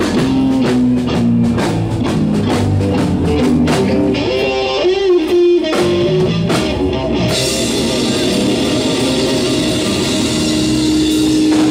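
Live rock band playing an instrumental passage: a guitar lead with bent, wavering notes over a drum kit. Cymbals wash in about seven seconds in, and a long held guitar note rings near the end.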